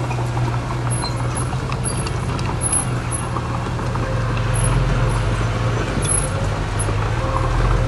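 Heavy diesel engine of earthmoving machinery running steadily under load, a deep even hum with faint scattered clicks above it.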